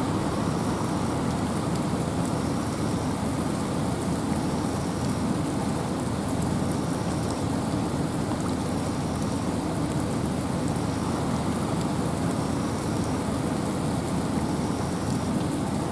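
Steady rain falling through forest with wind, an even, unbroken rushing hiss.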